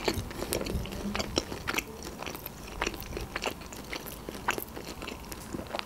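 A person chewing a mouthful of food with the lips closed: a steady run of soft, irregular wet mouth clicks and smacks.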